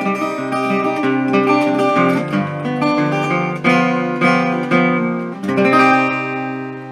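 Acoustic guitar strumming the closing chords of a folk song with no singing, ending on a last strummed chord a little over five seconds in that rings out and fades.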